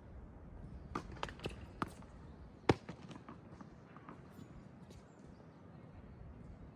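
Tennis play: a single sharp racket-on-ball hit near the middle, with a few smaller knocks before it, over a low rumble of wind on the microphone.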